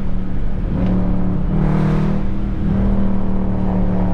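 Dodge 392's 6.4-litre HEMI V8 running steadily while the car cruises, with a brief swell of road or wind noise about two seconds in.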